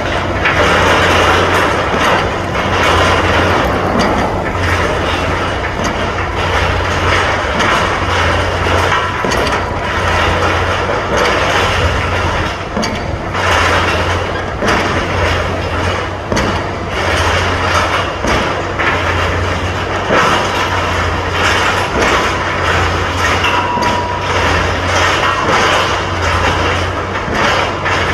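Pile driver at work on a construction site: repeated heavy hammer strikes over a steady low drone.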